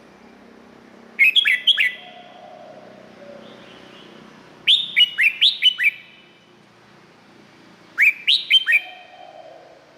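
Red-whiskered bulbul singing: three short, loud phrases a few seconds apart, each a quick run of clear notes that drop sharply in pitch.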